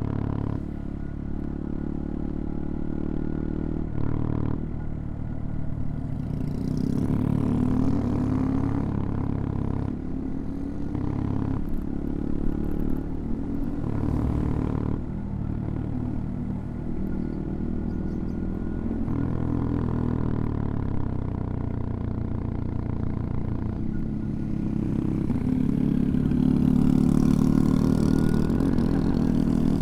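CFMoto Papio XO-1's small single-cylinder engine pulling the bike along. Its note rises and drops several times with throttle and gear changes, with a few short clicks and clatter, and it climbs louder near the end as the bike accelerates.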